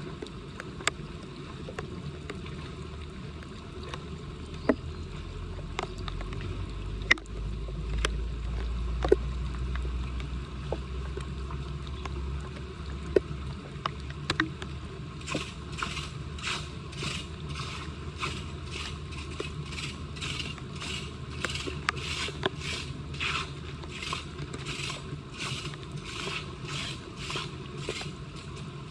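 Storm drain being cleared of debris by hand tools: scattered knocks and clicks over a low rumble, then, from about halfway through, a steady rhythm of scraping strokes, about two a second.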